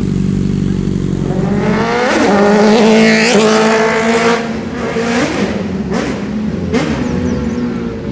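Sport motorcycle engine running low, then revved hard about two seconds in and climbing to its loudest around three seconds, followed by several short throttle blips.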